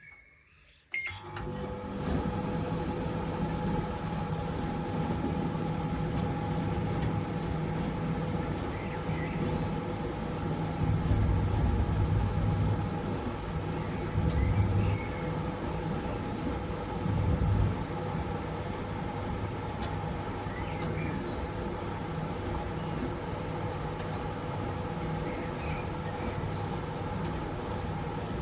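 Microwave oven starting up about a second in, then running with a steady hum, with a deeper rumble swelling louder a few times.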